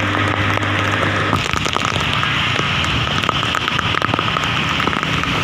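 Heavy monsoon downpour: dense, steady rain with many close drops pattering and clicking on hard surfaces. A low steady hum underneath stops about a second and a half in.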